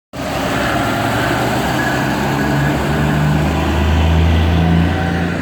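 Heavy truck engine running loud and steady, its low rumble growing a little stronger about three to four seconds in, then easing slightly.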